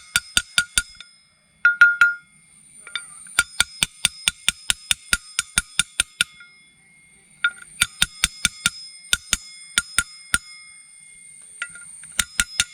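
Rapid metal-on-metal tapping, about four to five ringing strikes a second in runs of a few seconds with short pauses between, and one heavier knock about two seconds in: a new bearing being tapped down evenly into a motorcycle's rear sprocket carrier.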